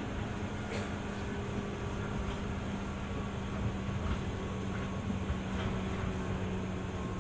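Interior running sound of a JR 205 series 600 subseries electric multiple unit travelling along the line: a steady rumble with a low hum and a few faint clicks.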